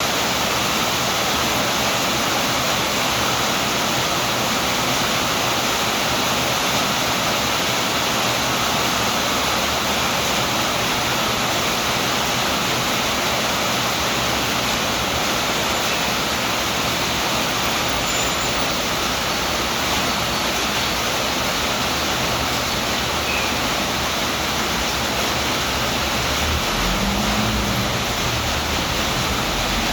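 Heavy rain falling in a steady, even hiss. Near the end there is a brief low rumble.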